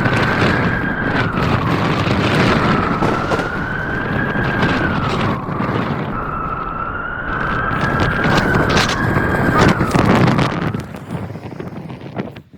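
Blizzard wind howling: a loud, rushing roar with a whistling tone on top that rises and falls slowly in long waves, dropping away about eleven seconds in.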